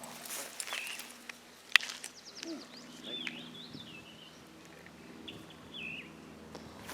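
Faint birds chirping outdoors: a few short, separate notes, with a single sharp click just before two seconds in.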